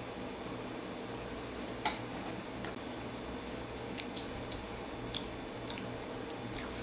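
Mouth sounds of chewing a ripe cornelian cherry: a few soft, short clicks, the loudest about four seconds in as a hand goes to the mouth, over a quiet room hiss.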